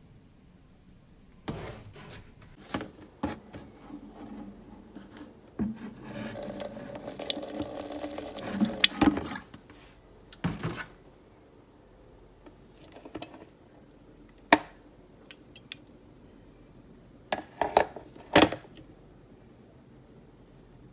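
Liquid pouring into an electric kettle for about three and a half seconds, for descaling its limescale. Sharp knocks and clatter from the kettle and its parts being handled come before and after the pour.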